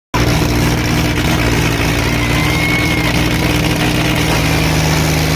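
Diesel tractor engine noise running steadily and loud. The engine note shifts slightly about four seconds in, and a short high whistle-like tone is heard near the middle.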